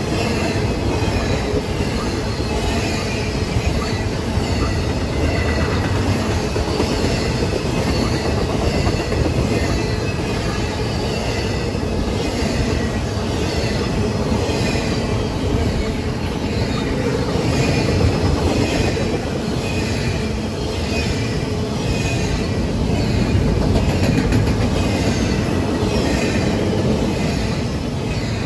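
Norfolk Southern freight train rolling past at steady speed: a continuous heavy rumble of the cars, with high wheel squeals recurring about once a second.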